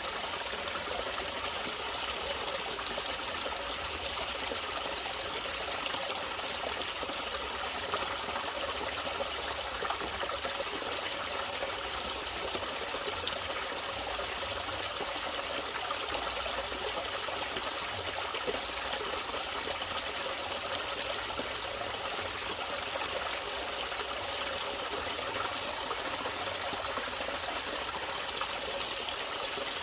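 Natural running water trickling and splashing steadily.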